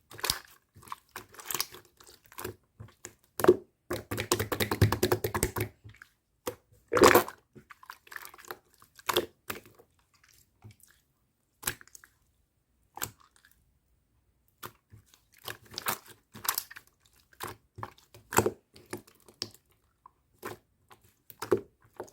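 Pearl slime being squeezed and poked by hand, giving sharp wet clicks and pops at irregular intervals. A dense run of rapid crackling comes about four seconds in.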